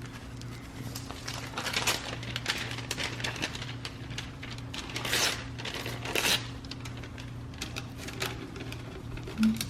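Tape being handled and torn off the roll, with paper crinkling and small clicks. Two longer tearing sounds come about five and six seconds in, over a steady low hum.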